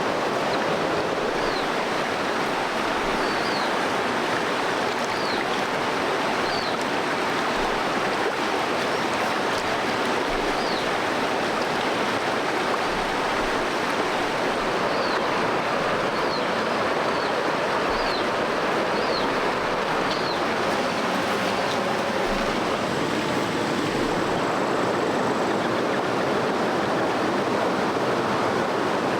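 Steady rush of a flowing stream, with a dozen or so short high chirps scattered through it.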